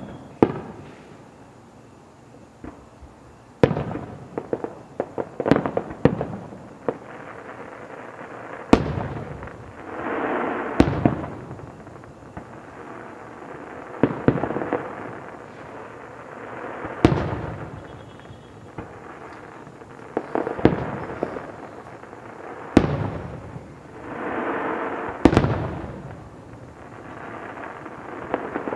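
Aerial fireworks shells bursting in a show: loud bangs every two to four seconds, each followed by a crackle of small pops and, now and then, a swelling rush of hiss.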